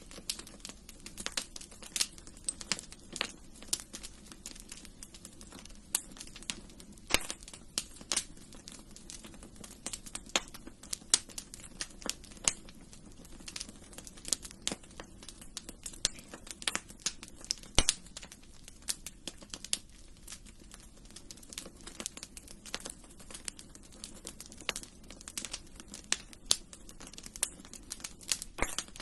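Wood fire in a fireplace crackling, with frequent irregular sharp pops of varying loudness over a low steady hiss.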